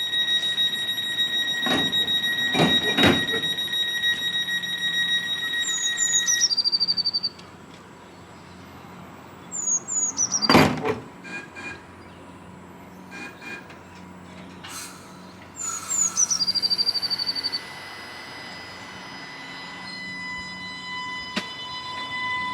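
Electric train's door equipment: a steady high electronic tone with a few clicks, then three sets of short falling chirps that each end in a held high tone, with a loud knock in between. Near the end a steady electric whine sets in.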